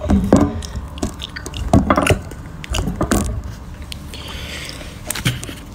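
Close-up eating noises: chewing and wet mouth sounds with scattered small clicks and knocks, and a short hiss about four seconds in.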